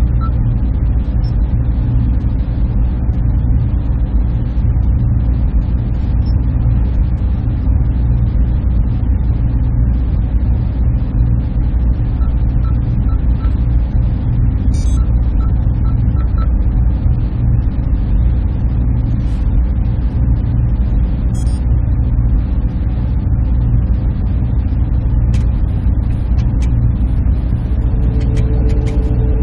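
Server room machinery running: a steady, dense low hum and whir, with a few faint short beeps partway through.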